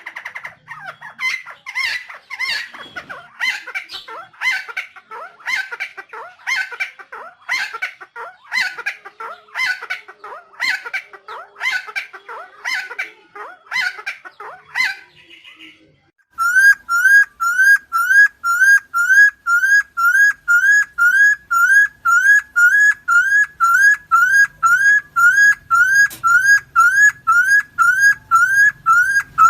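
Helmeted friarbird (Philemon buceroides) giving a run of harsh, raspy calls, about one and a half a second, for roughly fifteen seconds. After a short break comes a louder, clear rising whistled note repeated steadily about twice a second.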